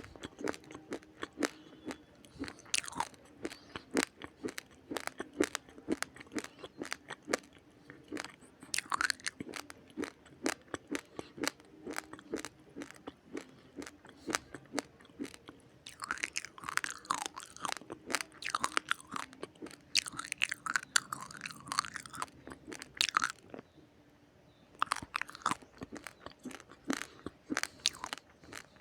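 Raw, uncooked rice grains being chewed close to the microphone: rapid, crisp cracking crunches in quick runs, broken by a short pause a little over three quarters of the way through.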